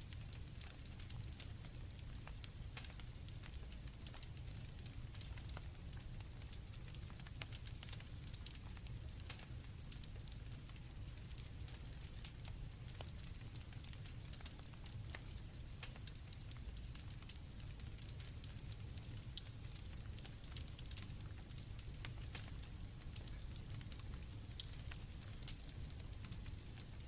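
Campfire crackling with frequent sharp pops over a low rumble, while crickets chirp steadily in high-pitched bands.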